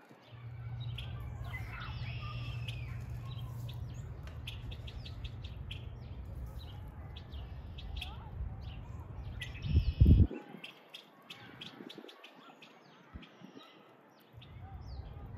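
Small birds chirping in short, repeated calls over a steady low hum. About ten seconds in there is a brief loud low rumble, and the hum drops out after it before returning near the end.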